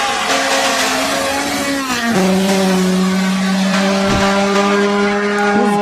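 Rally car engine at full throttle, a high raspy engine note. About two seconds in, the pitch drops sharply, then holds steady.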